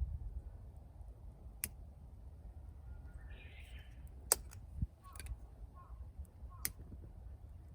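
Firewood crackling as it burns: a handful of sharp, separate pops about a second apart, over a low steady rumble.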